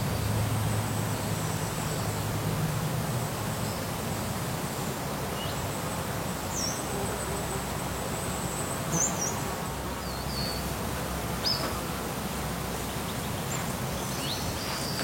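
Outdoor ambience: a steady high insect whine with several short bird chirps scattered through it, over a low background hum.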